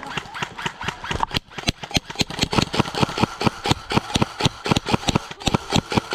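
Airsoft guns firing: a rapid run of sharp shots, about five a second, growing denser from about two seconds in.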